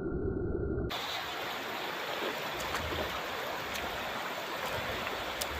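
River water flowing and rippling over a shallow stream bed, an even rushing sound with a few faint ticks. For about the first second it is muffled and low, then it cuts abruptly to a clear, full sound.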